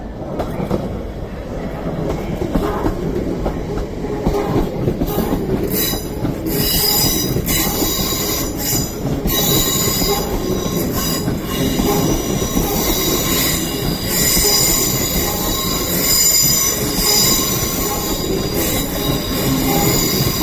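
A Class 350 Desiro electric multiple unit pulling out, its wheels rumbling and clicking over the track. From about six seconds in, the wheels give a high, ringing squeal that holds to the end.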